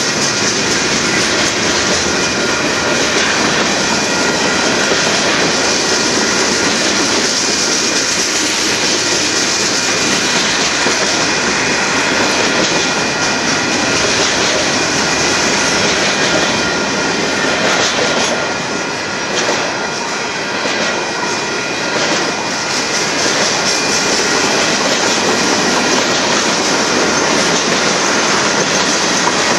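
Cars of a Union Pacific manifest freight train rolling past a grade crossing: a steady, loud rumble and rattle of steel wheels on the rails, easing slightly about two-thirds of the way through.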